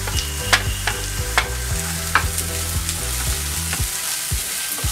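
Corn kernels, green chillies and fresh coriander sizzling as they fry in a pan on high heat. A few sharp clicks come as the coriander goes in, then a wooden spatula stirs and scrapes against the pan with repeated soft taps in the last second or so.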